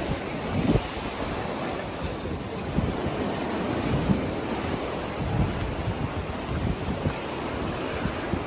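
Ocean surf breaking and washing in steadily, with wind buffeting the microphone in irregular low rumbles.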